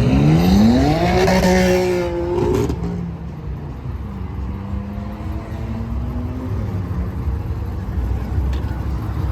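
Car engine accelerating hard, its pitch climbing steeply for about a second and a half, holding, then dropping off as the throttle closes near three seconds in. It then runs on at a lower, steady pitch over a constant low rumble.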